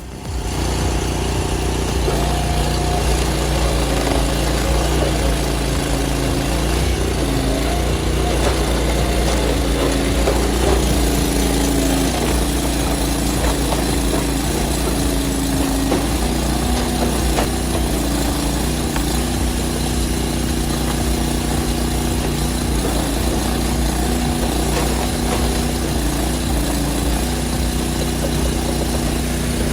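Engine powering a box wedge log splitter, running steadily throughout. Its pitch wavers and steps slightly now and then.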